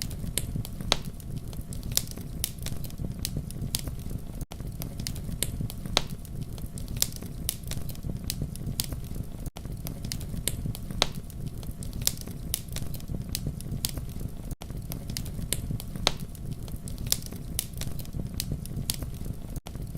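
Campfire crackling: a steady low rumble of flames with many sharp pops and snaps scattered throughout. The sound drops out for an instant about every five seconds.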